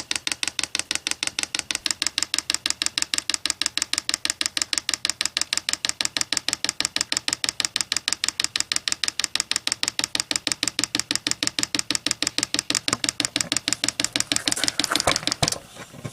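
Diesel heater's fuel dosing pump clicking rapidly and evenly, about five clicks a second, in manual priming mode as it pulls diesel and air through the fuel line. The clicking cuts off near the end as the pump shuts off on its own.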